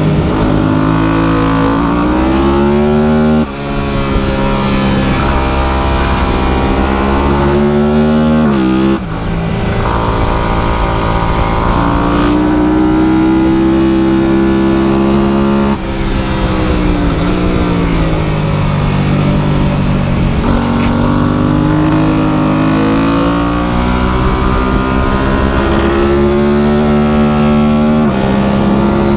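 Motorcycle engine under way, its pitch climbing and then dropping sharply twice, like upshifts through the gears. The engine then slows down and speeds up again.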